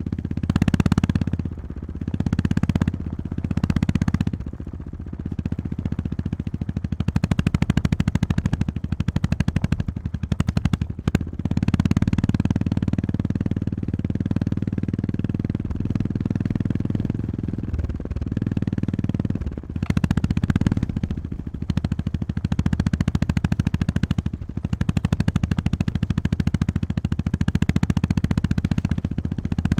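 Honda GB350S single-cylinder motorcycle engine running under way, its revs rising and easing off again and again as the throttle opens and closes.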